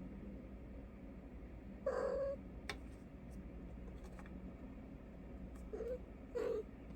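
Domestic cat giving three short meows: one about two seconds in, then two in quick succession near the end.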